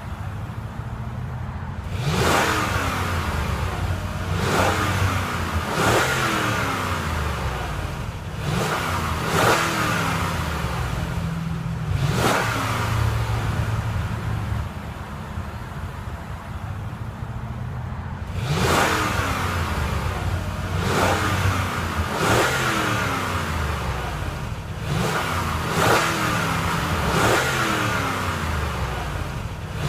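The 2015 Lexus GX 460's 4.6-litre V8 revved in repeated short throttle blips, the pitch jumping up and falling back after each one. In the middle there is a stretch of several seconds of steady idle between two groups of blips.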